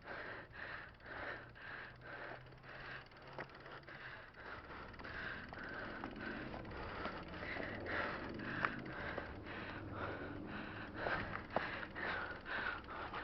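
A person breathing hard in quick, regular breaths, about two a second, with a few sharp clicks.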